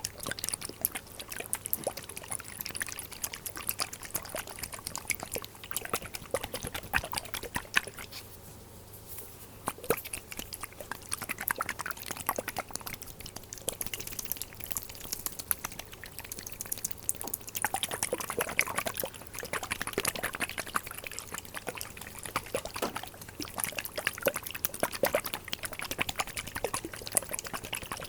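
Glass dropper bottles handled close to the microphone: liquid squeezed through a dropper and pouring and dribbling, amid a dense run of small clicks and taps. The clicking thins out about eight seconds in and grows denser again past the middle.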